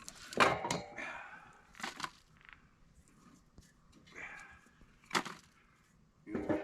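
Kindling wood being handled and knocked together for a campfire: about half a dozen separate knocks and rustles with short pauses between them.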